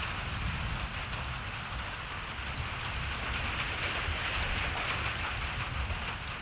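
Steady rain falling: a dense, even hiss, with a low rumble underneath.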